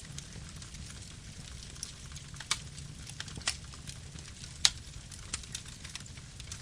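Campfire burning: a steady low rumble of flames with irregular sharp crackles and pops, the loudest about two thirds of the way in.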